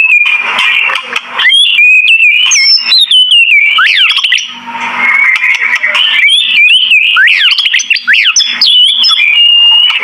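White-rumped shama (murai batu) singing a loud, varied song of clear whistles and quick rising and falling sweeps, with a short pause near the middle.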